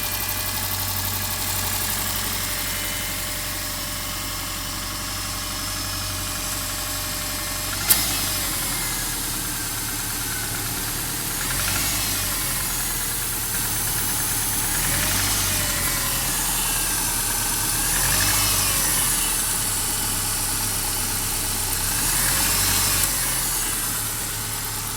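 Subaru flat-four engine idling with a little knocking, which the owner takes for piston slap. The engine speed rises and falls briefly a few times, and there is one sharp click about eight seconds in.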